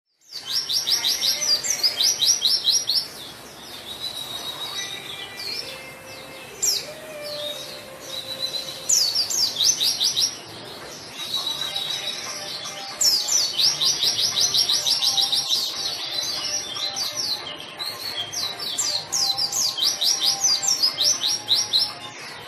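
White-eye (pleci) singing a fast, lively song: repeated bursts of rapid high chirping trills, each one to three seconds long, with thinner whistled notes in between.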